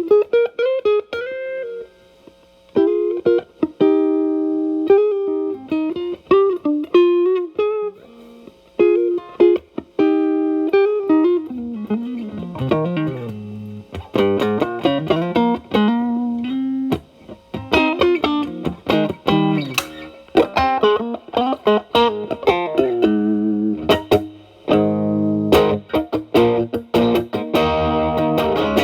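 Electric guitar, a Telecaster, played through an E.W.S. Brute Drive distortion pedal with its gain at 9, into a Marshall Valvestate amp on its clean channel. It plays single-note lead phrases with string bends and held notes, then moves to fuller chords near the end.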